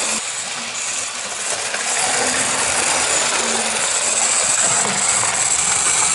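Mainline Railways OO gauge Class 2251 0-6-0 model steam locomotive running on the layout track: a steady whirring and rattling of its small electric motor and gears and its wheels on the rails, with a faint low hum that wavers in pitch. The locomotive is running poorly and keeps stopping, for reasons the owner doesn't know.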